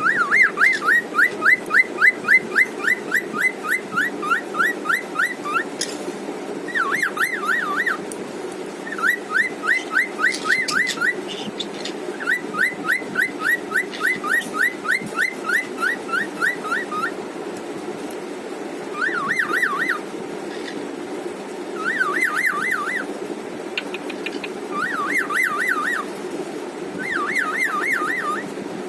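Cockatiel singing: long runs of rapid whistled notes, each sweeping up and down, about five a second. Over the second half the phrases turn into shorter, quicker warbled bursts a few seconds apart.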